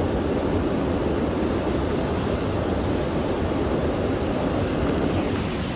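Waterfall rushing: a steady, even noise, heaviest in the low end.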